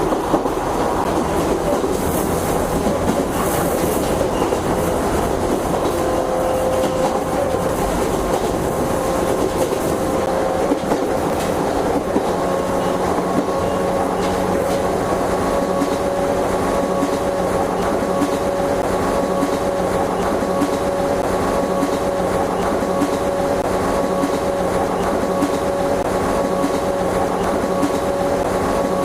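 JNR 101 series electric train running, its traction motor and gear whine rising slowly in pitch as it gathers speed, over a steady rumble and clatter of the wheels on the rails.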